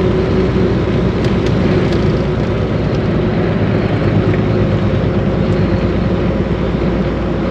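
Steady in-cab drone of a Volvo VNL 860 semi truck cruising on the highway: engine and road noise.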